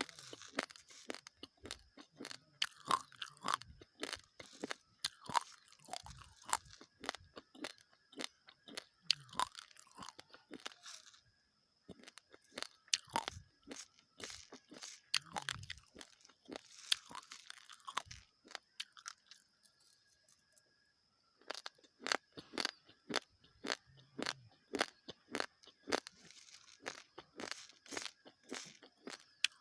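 Close-miked crunching of dry, uncooked basmati rice grains being chewed: rapid sharp cracks. The chewing stops twice for a couple of seconds each, once about a third of the way in and again around two-thirds through.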